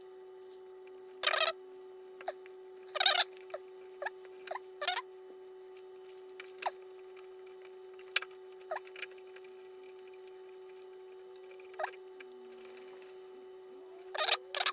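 Scattered light clicks, taps and scrapes of hands handling parts and tools while working on an electric motorcycle's controller wiring, the sharpest about a second and three seconds in and again near the end, over a faint steady hum.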